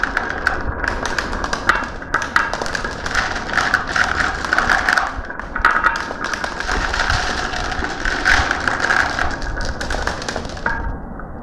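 Marbles rolling and clacking down a marble run track: a dense, irregular patter of quick clicks and knocks over a steady rolling ring, thinning out near the end.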